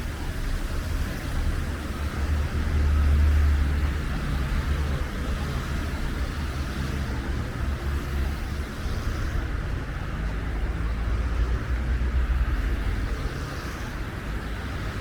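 Street traffic going by: a low engine and tyre rumble that swells about three seconds in, over a steady hiss.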